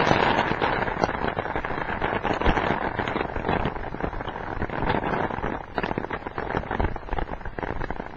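Rain falling, heard as a dense, crackling patter of drops through a laptop webcam microphone.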